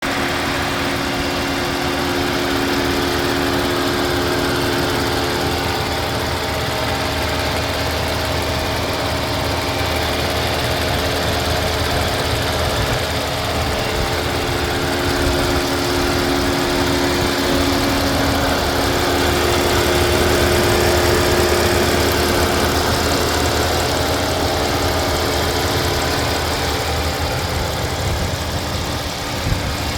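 2015 Audi S4's supercharged 3.0-litre V6 running steadily, a little louder about two-thirds of the way through, with one sharp click near the end.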